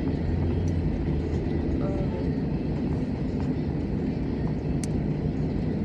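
Steady low rumble of a car's engine and road noise heard inside the cabin, with a faint click about five seconds in.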